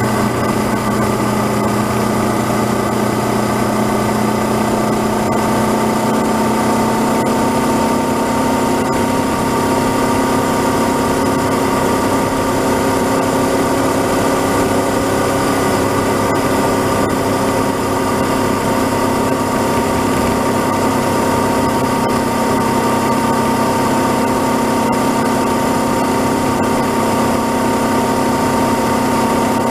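Honda CB500X's parallel-twin engine running steadily while the motorcycle cruises along the road, with its pitch rising slightly about seven seconds in.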